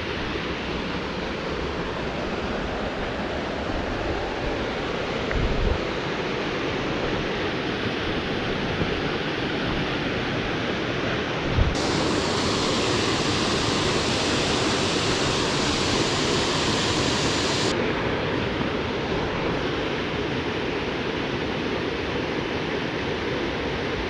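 Waterfall rushing steadily, with two brief low thumps on the microphone, one about five seconds in and one near the middle.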